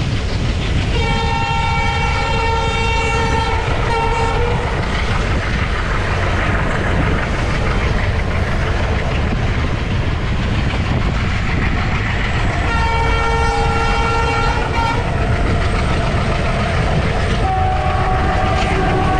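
Moving train running with a steady heavy rumble and wheel clatter, while the ALCO diesel locomotive's horn sounds a long blast, a short one, then another long blast midway. Near the end a differently pitched horn tone comes in.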